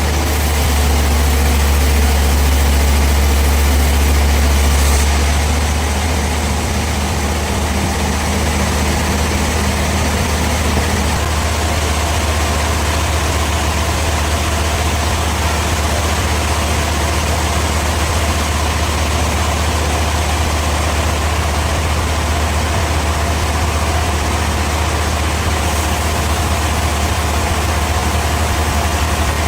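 Sawmill machinery running steadily with a strong deep hum. The sound eases slightly about five seconds in and shifts again about eleven seconds in, when a higher steady tone joins it.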